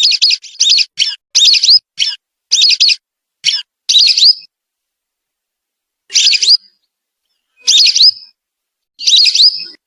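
Whistling ducks (belibis) calling in thin, rising whistles, as used to lure the birds. A quick run of short whistles comes first, then after a pause three more calls spaced about a second and a half apart.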